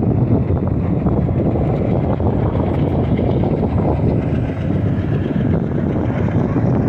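Train running past: a loud, steady low rumble with no breaks.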